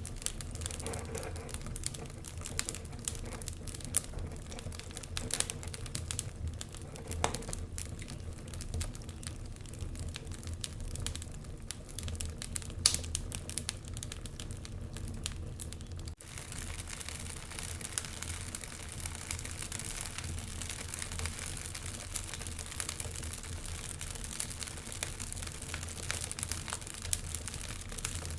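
Wood fire crackling and popping, with many short sharp snaps over a low steady rumble. About halfway through, the sound changes to a denser, more even hiss with fewer loud pops.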